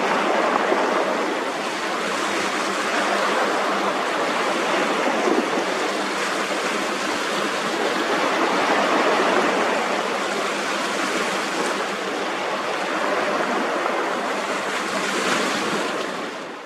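Steady rushing of water, the wash of a fast-moving patrol boat, with wind noise, cutting off abruptly at the end.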